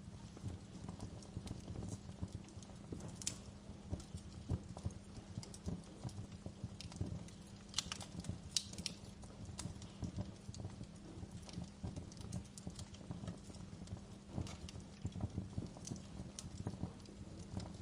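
Wood fire in a fireplace crackling continuously, with dense small pops and a few sharper snaps about three seconds in and again around eight to nine seconds in.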